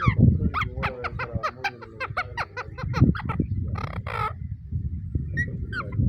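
Indian ringneck parakeets calling: a fast run of short, sharp, downward chirps, about six a second, then a longer harsh call about four seconds in and a few more chirps near the end, over a low background rumble.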